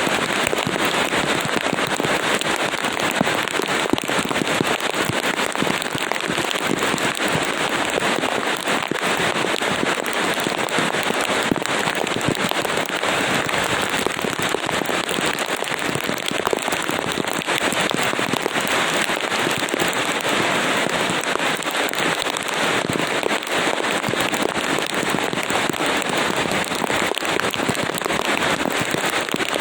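Heavy rain falling steadily: a dense, crackling patter of drops at a constant level, with no let-up.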